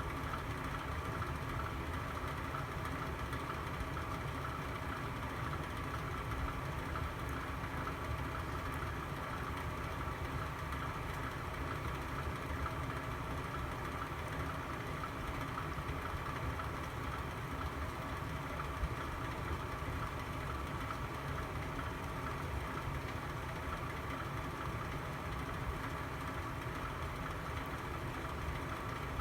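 Fireplace burning with a steady low rumble and hum, broken only by a couple of faint pops.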